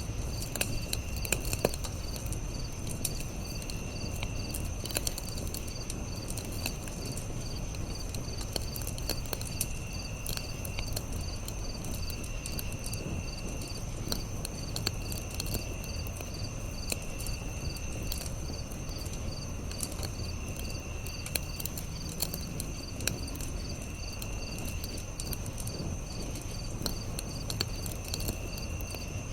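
Campfire crackling, with scattered sharp pops over a low steady rush, under a constant chorus of chirping insects. One insect call is a fast, even pulsing that never stops; another comes in trills about a second long, repeating every couple of seconds.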